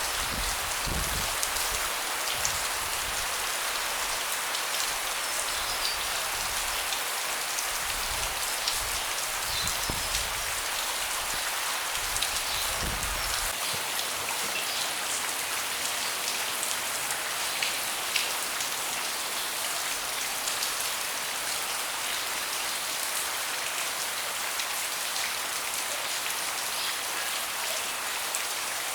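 Steady rain falling on a deck, a continuous hiss with individual drops tapping throughout. A low rumble underneath stops about halfway through.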